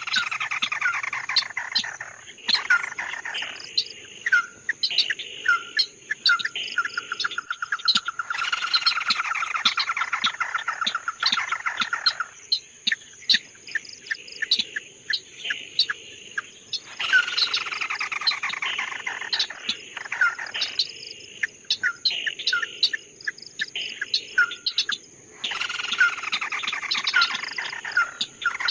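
A songbird singing in repeated phrases: sharp whistled notes and falling sweeps that run into fast trills, each phrase a few seconds long with short pauses between them.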